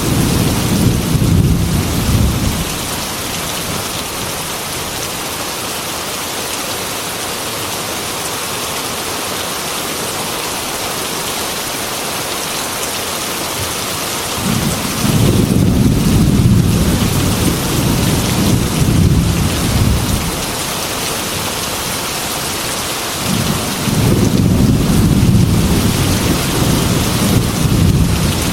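Heavy rain falling steadily on a glass window, with rolling thunder: a rumble dying away about two seconds in, another rolling in about halfway through and lasting several seconds, and a third near the end.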